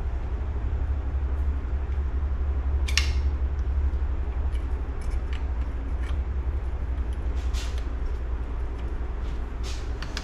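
A few light metallic clicks of small steel engine parts being handled as a gearshift mechanism is worked onto its shaft, over a steady low hum in the workshop.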